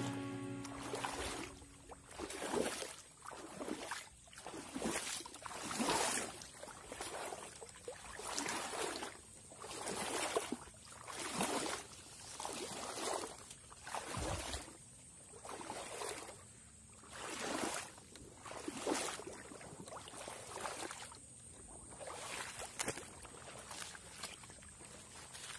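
Slow, regular swishes of water, roughly one every second and a quarter, with a faint steady high-pitched whine underneath.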